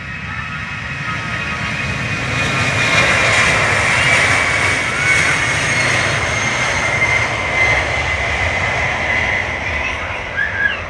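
Jet aircraft engines passing by. The sound swells over a few seconds, stays loud, then eases off, with a high whine that slowly falls in pitch.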